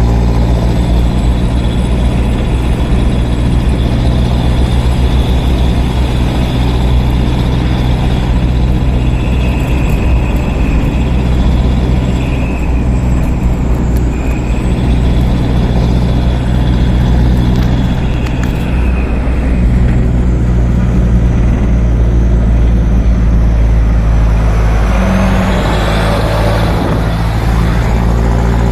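Heavy truck engines running steadily with a deep, even hum.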